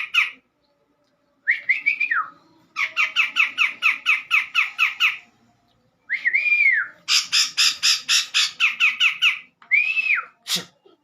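Cak jenggot calling: several bouts of rapid, harsh, squawky notes, about six a second, broken by short gaps. Between the bouts come single arched whistled notes, three in all.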